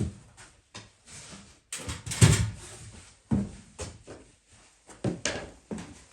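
A run of irregular knocks and clatters, like objects being handled and set down, the loudest about two seconds in.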